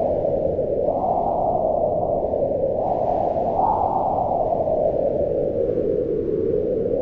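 Strong mountain wind howling, a dense low rush that swells and falls in slow gusts, rising twice in the first few seconds and then easing off.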